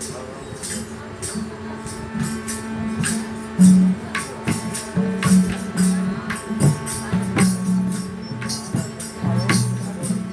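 Devotional satsang music: jingling hand percussion struck again and again over held low instrumental notes that change pitch every second or so.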